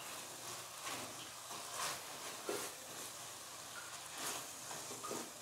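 Faint sizzling of onion-tomato masala frying in a stainless steel pot, with a few soft scrapes of a wooden spatula stirring it.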